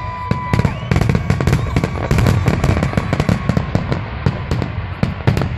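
Fireworks going off in quick succession: a dense run of bangs and crackles over a continuous low rumble. A high whistling tone fades out in the first second.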